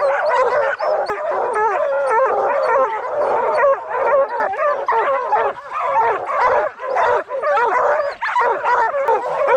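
A pack of bear hounds baying and barking without a break, many voices overlapping: hounds bayed up at a bear treed above them.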